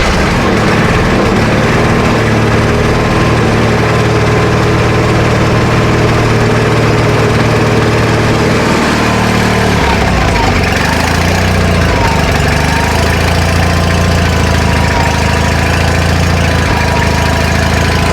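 Small gasoline garden-tractor engine running steadily just after starting, with a little choke on. It caught readily after sitting for days, now that its leaking fuel lines are sealed and gas no longer siphons back to the tank. About halfway through, its note shifts and wavers slightly.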